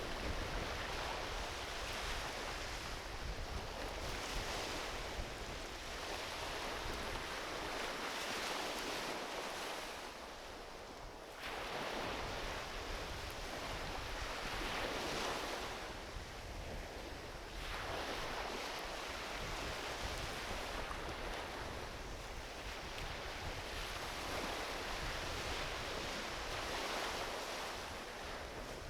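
Small ocean waves washing onto a beach, a steady hiss of surf that swells and falls back every few seconds, with a short lull about ten seconds in and a fresh wave breaking sharply soon after.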